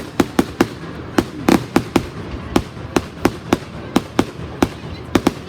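Fireworks going off: an irregular string of sharp bangs, several each second, some trailing a brief echo.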